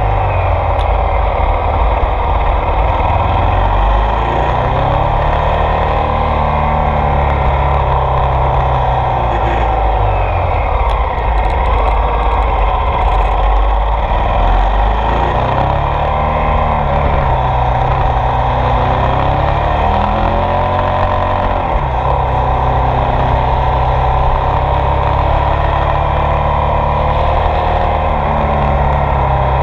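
Ducati Multistrada 1200 S DVT's 1198 cc Testastretta DVT V-twin engine running under way, its pitch rising and falling several times as the rider accelerates and backs off.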